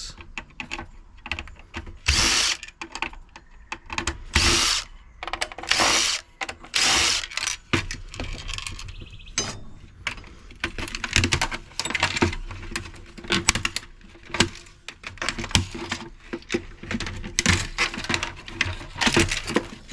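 Power drill driving out screws in short bursts of about half a second, with many clicks and knocks of parts being handled and pulled apart.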